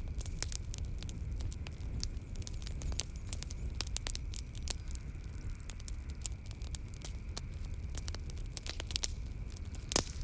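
Wood fire burning in a fireplace, with irregular crackles and pops over a low rumble of the flames, one sharper pop near the end. A faint steady high drone runs underneath.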